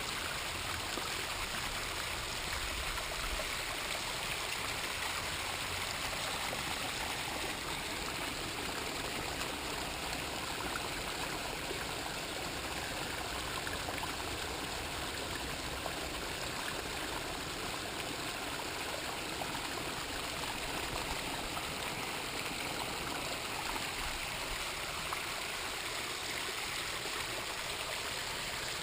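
Water from a homemade pondless waterfall, pumped at about 4500 gallons an hour, running steadily over native rock and river stone.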